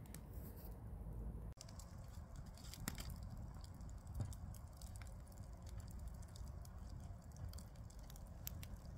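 Campfire crackling faintly, with scattered sharp snaps and pops over a low rumble.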